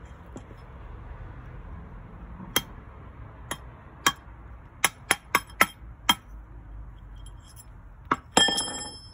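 Hand hammer striking metal in sharp, separate taps, several in quick succession. Near the end comes a louder blow whose metal rings on with clear high tones.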